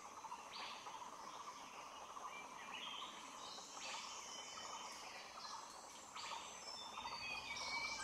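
Wild forest birds calling faintly with scattered short chirps and whistled notes, over a steady faint buzz.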